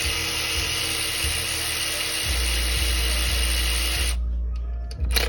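A power tool running steadily on engine fasteners, a hissy whir that stops about four seconds in, followed by a sharp click near the end.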